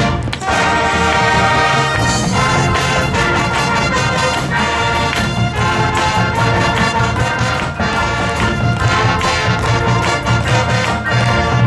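Marching band brass and percussion playing a pop arrangement with a steady beat.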